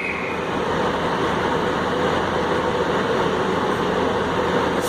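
Class 143 Pacer diesel multiple unit pulling away, its underfloor diesel engine running steadily under power with a held mid-pitched note.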